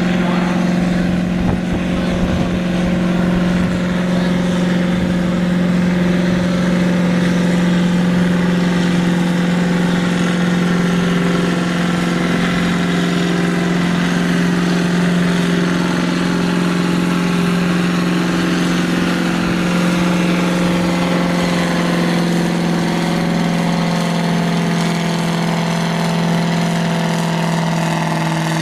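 Naturally aspirated pulling tractor's engine running loud at steady high revs, its pitch dropping slightly near the end.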